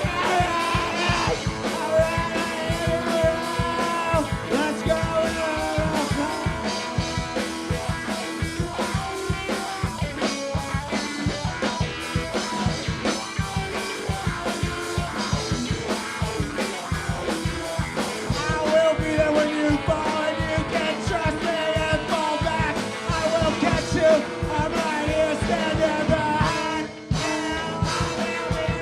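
A live rock band playing loudly, with electric guitars over a steady drumbeat and some singing.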